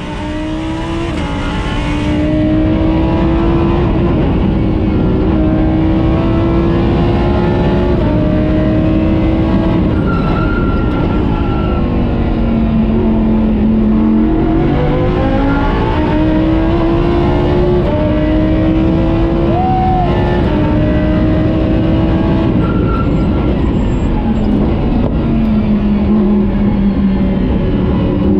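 Lamborghini Huracán Super Trofeo Evo race car's V10 engine under hard acceleration. Its pitch climbs and drops sharply at each quick upshift, and falls away twice as the car slows, then climbs again.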